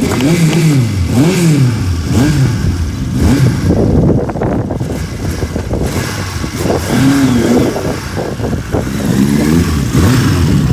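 Motorcycle engine being blipped, its revs rising and falling several times in quick succession, with a longer rev about two-thirds of the way through.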